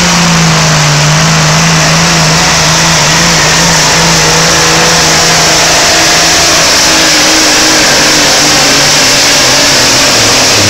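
Diesel engine of a pulling semi truck running flat out under heavy load as it drags the sled, very loud, its pitch held steady at high revs.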